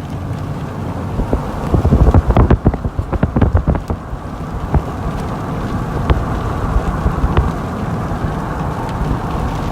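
Rain and road noise inside a moving vehicle, a steady rushing hiss. About two seconds in comes a burst of loud, irregular thumps and knocks lasting a couple of seconds, followed by a few scattered ticks.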